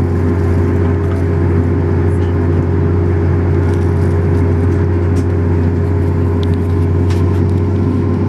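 CFM LEAP-1B turbofan on a Boeing 737 MAX 8 running steadily, heard inside the cabin as a constant low drone with several steady tones above it.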